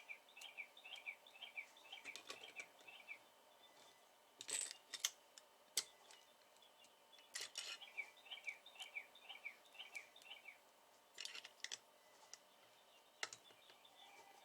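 A small bird singing a fast run of about ten chirps, twice, faint in the background. Between the runs come a few sharp clicks and taps, the loudest about five and six seconds in.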